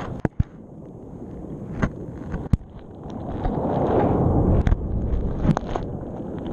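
Underwater recording in the surf zone: a muffled rush of wave surge that swells to its loudest around the middle, broken by about half a dozen sharp clicks and knocks as the dropped GoPro's housing is dragged and knocked along the sea bed.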